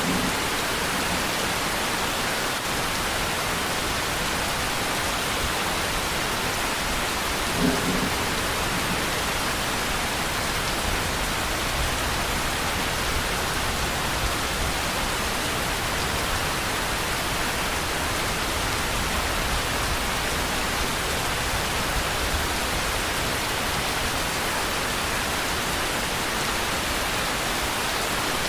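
Steady, even rainfall, a constant hiss of drops with no let-up. Two brief low thumps stand out, one at the very start and one about eight seconds in.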